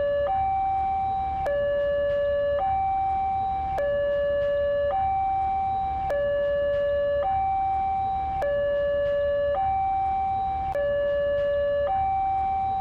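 Electronic two-tone hi-lo siren, switching between a higher and a lower tone about once a second in an even, repeating pattern. A low steady hum runs underneath.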